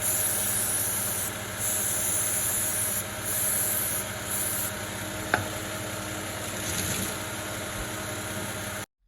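Aerosol brake cleaner sprayed in four short hissing bursts over a Volvo XC90's idling engine, with a single click about five seconds in.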